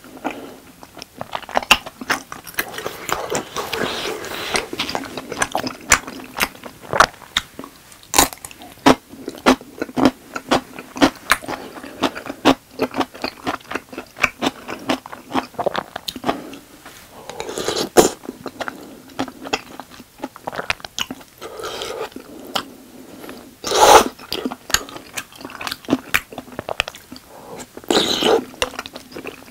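Close-miked chewing of tteokbokki, chewy rice cakes in thick red sauce: a steady run of short wet mouth clicks and smacks, with a few louder bursts along the way.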